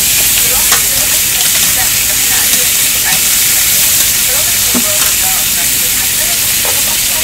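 Ham slices, a sausage and an egg frying on a flat-top griddle, giving a steady sizzle with a few faint clicks now and then.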